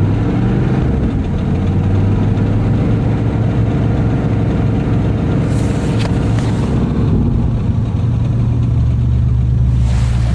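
Chevrolet Camaro engine running just after a cold start, held at high revs, then dropping back to a lower, steady idle about seven seconds in.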